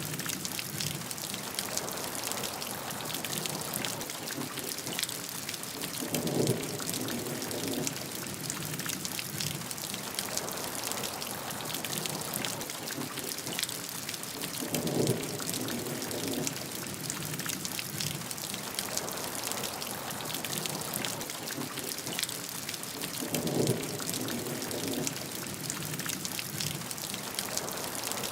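Steady heavy rain with a dense patter of drops on a surface. Three short, slightly louder low swells come at even intervals, roughly eight seconds apart.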